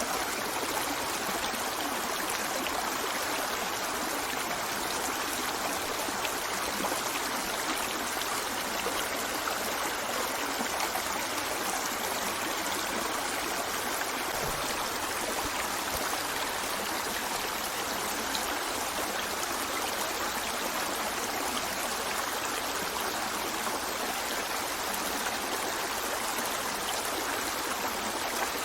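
Steady rush of flowing water from a stream, an even sound that does not change.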